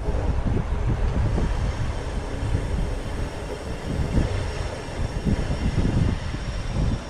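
Wind buffeting the microphone of a chest-mounted camera on a moving bicycle: a gusty low rumble that surges and fades.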